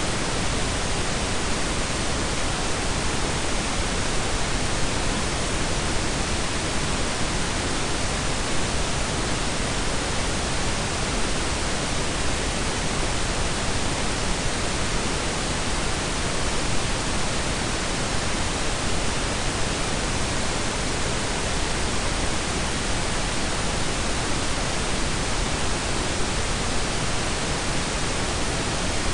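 Steady blend of pink and brown noise: an even, unchanging hiss with a deep rumbling low end, cut off above about 10 kHz.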